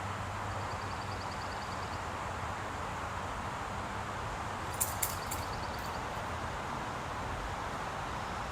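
Steady outdoor background noise, with a high, fast ticking trill heard twice and two sharp clicks about five seconds in.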